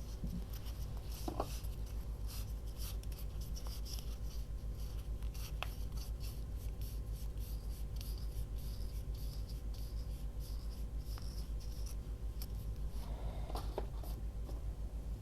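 Light scratching and rustling of paper being worked by hand, many short strokes one after another, over a steady low hum.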